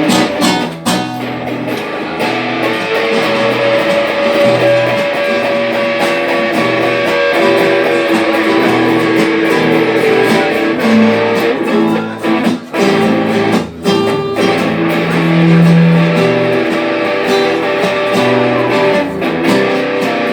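Instrumental passage of a rock song between sung verses: guitar playing over a steady low bass line, with no vocals.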